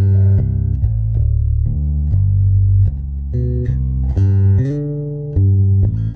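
Electric bass guitar played through a compressor pedal: a run of plucked low notes, changing every half second to a second and held at a fairly even level.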